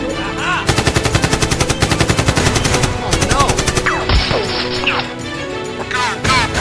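Automatic gunfire, a rapid burst of about nine shots a second lasting a little over two seconds, over action background music.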